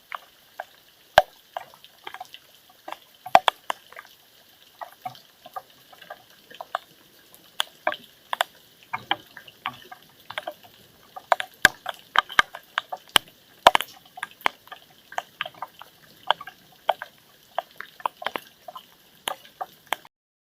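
Rainwater dripping in a thunderstorm: sharp drops falling at an irregular pace, a few a second, cutting off suddenly near the end.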